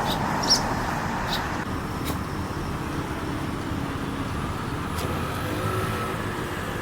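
Steady low rumble of road traffic, with a car going by, and a single short high chirp about half a second in.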